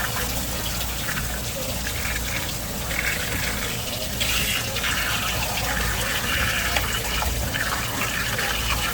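Tap water running and splashing steadily, with uneven surges of hiss, over a low steady hum.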